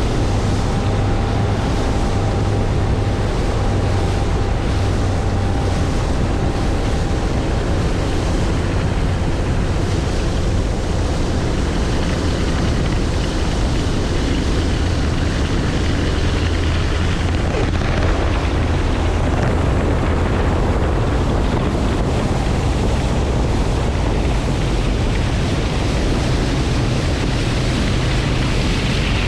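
Steady engine drone with wind buffeting the microphone and water rushing, as heard from a boat running on the lake.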